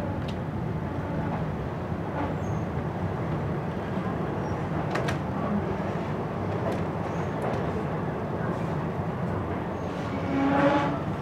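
Passenger train carriage running along the line: a steady rumble and rattle with occasional clicks of the wheels and running gear, heard at an open carriage window. A short pitched call stands out near the end.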